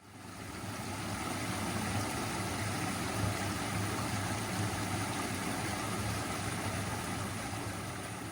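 A steady engine-like rumble, rising in level over the first second and then holding even.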